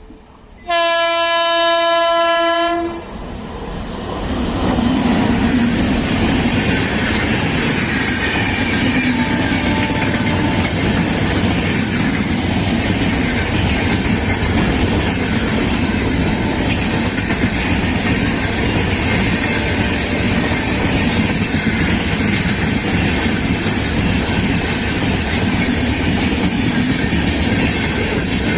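WAP-7 electric locomotive's horn sounds one loud blast of about two seconds, starting just under a second in. The express then passes close by at speed, with a steady rumble and clatter of coach wheels over the rails.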